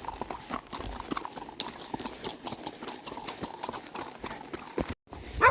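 Hoofbeats of two horses walking together, one ridden and one led alongside: an uneven run of clip-clop steps. It breaks off suddenly about five seconds in, and a loud call begins right at the end.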